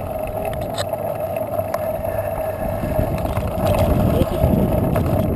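Riding noise from a moving bicycle: a steady hum with rumble and some wind on the microphone, growing louder about three and a half seconds in.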